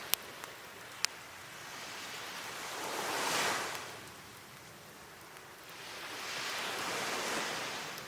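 Sea waves washing onto the shore in two slow swells, peaking about three and seven seconds in. A wood fire of cedar and oak gives two sharp pops near the start.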